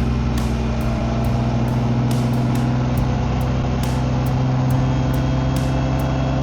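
BMW K1600GT inline-six engine and exhaust running at a steady cruise under way, a constant even drone with no change in revs. Faint light ticks repeat about twice a second over it.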